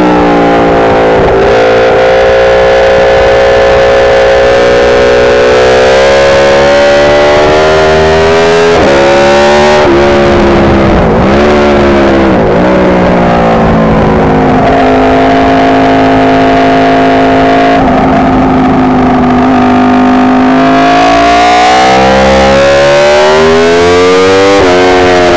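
Aprilia RSV4 sport bike's V4 engine at track speed, changing pitch as the rider works the throttle and gears. It drops in pitch at each shift, dips and recovers several times around the middle, holds one steady note for several seconds, then climbs steadily near the end until a sudden drop at an upshift.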